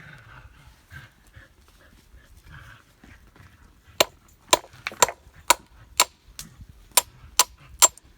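A steady series of sharp knocks or taps, about two a second, starting about halfway through, after a quieter stretch of faint scattered sounds.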